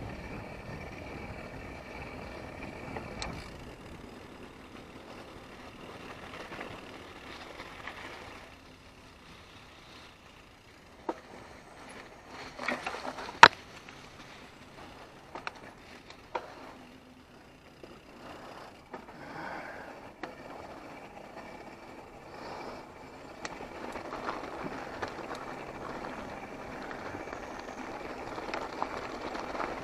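Mountain bike rolling along a dirt trail, with steady tyre noise and scattered rattles and clicks. A single sharp knock, the loudest sound, comes about halfway through.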